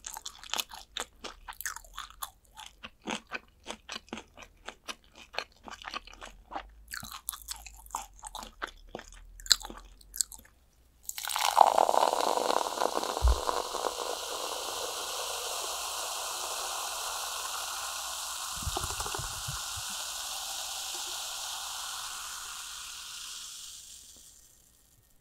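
Close-miked crunching and chewing of crispy fried chicken, many quick crisp bites. About eleven seconds in the chewing stops and a steady hiss starts suddenly, runs for about thirteen seconds and fades out near the end.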